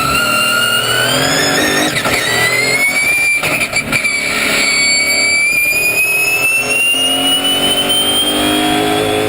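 Twin-turbo Audi V8 race-car engine running hard under acceleration, its pitch climbing quickly over the first few seconds and then slowly and steadily, with a brief unsteady patch about three to four seconds in.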